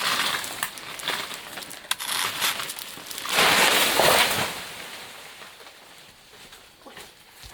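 Rustling and crackling of leaves and plant material, with scattered small snaps and one louder swishing rush about three seconds in.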